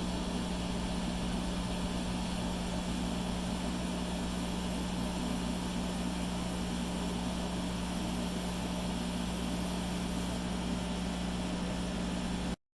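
A small motor running with a steady, even drone, starting and cutting off abruptly.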